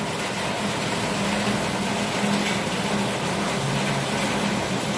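Heavy rain falling, a steady even hiss, with a low hum that comes and goes.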